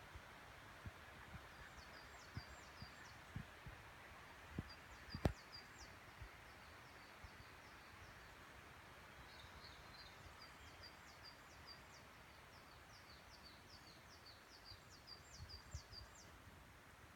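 Faint, high-pitched songs of small forest birds in quick runs of short notes, repeated several times, over a quiet steady hiss. Scattered low thuds and one sharp click a little after five seconds in.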